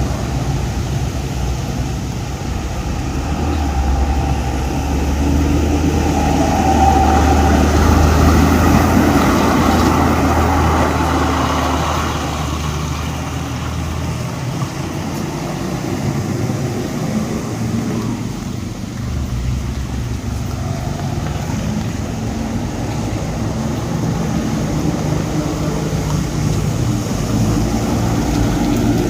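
Motor vehicles passing on a rain-wet mountain road bend, with tyre and engine noise throughout. A low engine drone swells from about three seconds in, peaks, then fades about halfway through as other vehicles follow.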